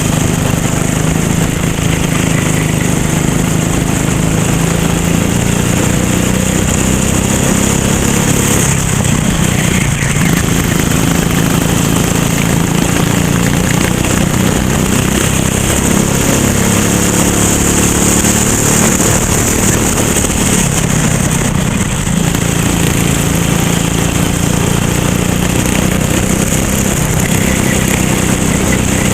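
Racing kart engine running hard through a race lap, its pitch falling and rising again as it slows for corners and accelerates out, with a clear dip about nine seconds in and another longer one around sixteen to twenty seconds.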